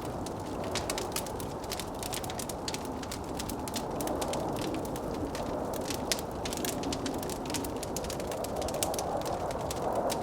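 Wood fire crackling with a dense run of small irregular pops, over a steady rushing noise of blizzard wind.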